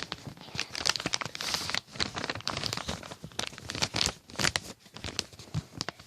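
A sheet of paper being handled and folded into a paper airplane, crinkling and crackling irregularly as it is bent and creased.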